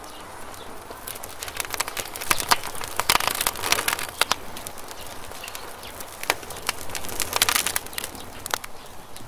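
Campfire crackling and popping: sharp snaps of burning wood, thickening into dense runs of crackles twice, over a low steady hiss.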